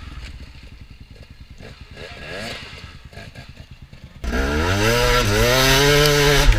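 Dirt bike engine putting along with a fast, even pulse. About four seconds in it gets abruptly louder and revs hard, rising in pitch, dipping once, then climbing again and holding high before cutting off sharply near the end.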